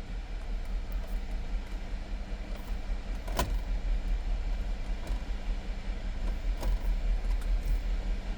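Steady low rumble of a car, with a faint hum and two sharp clicks: one about three seconds in, another about six and a half seconds in.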